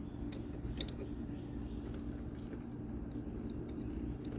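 A steady low mechanical hum with a few steady tones in it, and scattered small clicks and taps from wires and terminals being handled.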